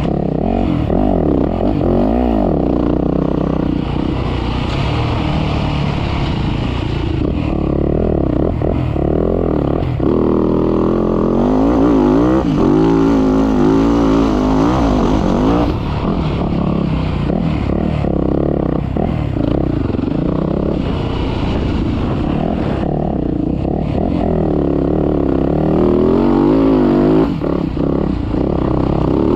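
Dirt bike engine being ridden hard, revving up and down repeatedly as the throttle opens and closes.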